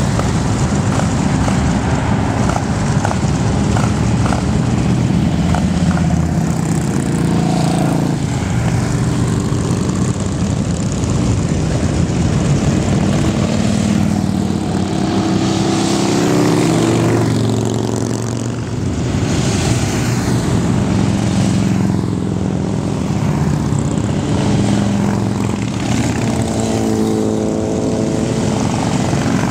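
Motorcycle engines running steadily as the bikes ride off, their pitch rising and falling as they rev and change speed.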